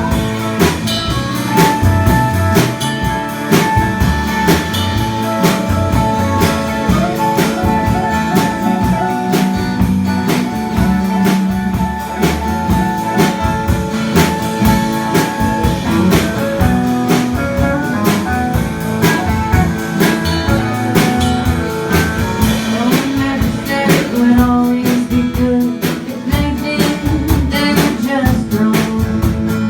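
Live band playing a blues-style song on guitar and drum kit, with a long held guitar note through the first half.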